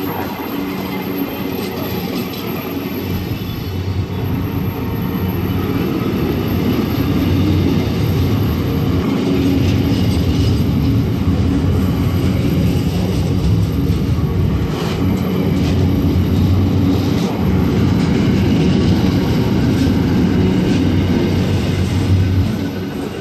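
Intermodal freight train wagons rolling past close by: a steady, loud rumble of steel wheels on rail, with occasional sharp wheel clicks.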